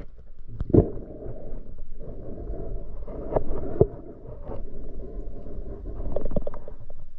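Muffled underwater noise from a camera in its waterproof housing, a steady rumble of moving water with a few sharp knocks.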